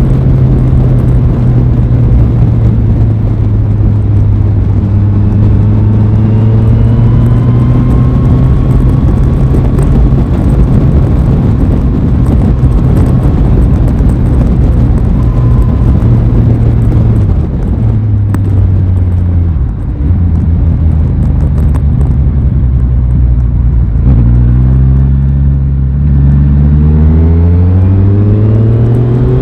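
Aprilia Tuono 660 parallel-twin engine under way at a steady speed, with a constant rush of noise over it. A little past halfway the revs dip twice, and in the last few seconds the engine pulls up through the revs as the bike accelerates.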